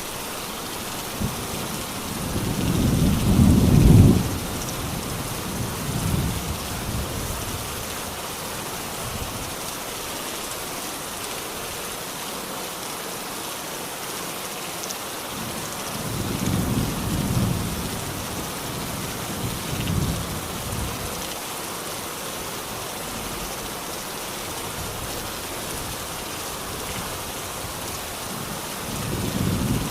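Steady rain falling, with low rumbles of thunder swelling and fading several times. The loudest builds to a peak about four seconds in, more come around the middle, and another begins near the end.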